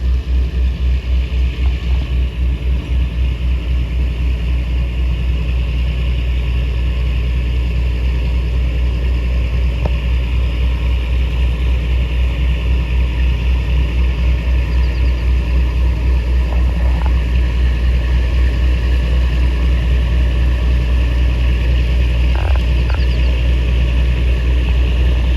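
Engine running steadily at a constant speed, a loud low throb pulsing about three times a second.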